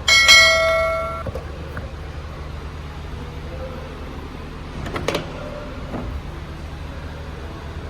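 A metal object is struck or dropped and rings out with a clear metallic clang that fades over about a second. A few quieter knocks follow about five and six seconds in, over a steady low hum.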